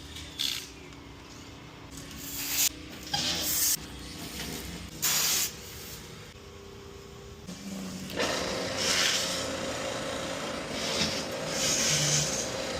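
Several short bursts of hissing, then from about eight seconds in a steadier hiss with a faint steady hum underneath.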